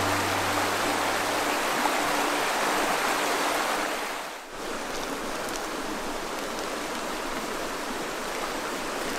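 Steady rushing of the Hoh River's flowing water, an even wash of noise. It dips briefly about four and a half seconds in, then carries on a little quieter.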